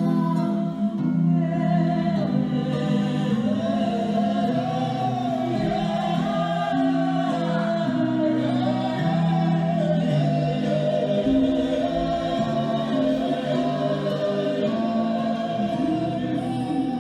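Singing with musical accompaniment: a high voice holds long, wavering notes over steady lower chords that change every second or two.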